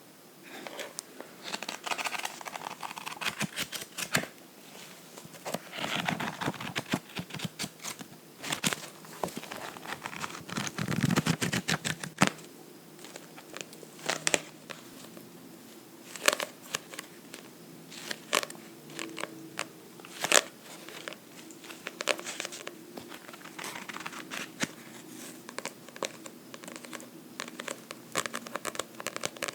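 A book being scratched and tapped by hand: irregular sharp taps between stretches of rustling, scratching noise.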